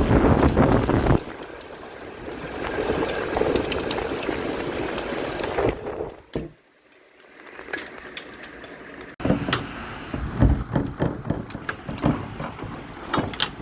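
Heavy rainstorm with hail: wind buffeting the microphone at first, then a steady rush of rain that dies down to a brief lull, before a sudden return of rain with a rapid clatter of hailstones striking.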